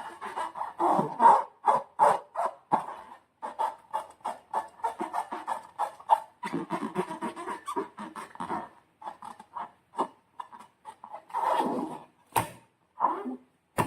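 Slime being squeezed and worked by hand: a dense run of wet squelches and quick sticky clicks, with a few short pauses and one sharp click near the end.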